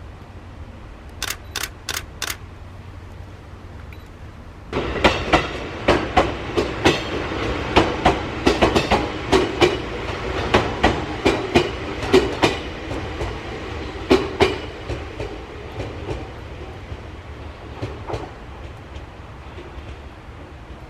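Shinano Railway 115-series cars rolling slowly through depot track, their wheels clicking and clacking over rail joints and points. Four quick sharp clicks come first. The rolling noise starts suddenly about five seconds in, with clacks in uneven groups, then thins out in the last few seconds.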